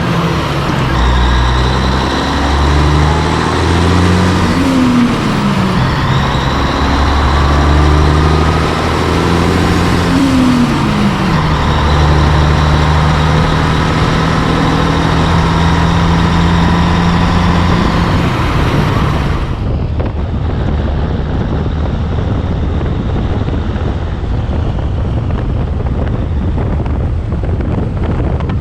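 Heavy truck's diesel engine pulling under load, its pitch stepping down twice as the gears change. About two-thirds of the way in it gives way abruptly to a duller rush of road and wind noise.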